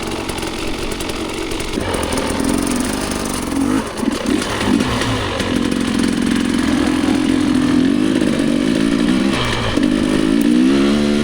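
Dirt bike engine revving up and down while riding, its pitch rising and falling with the throttle, with a brief drop in revs about four seconds in.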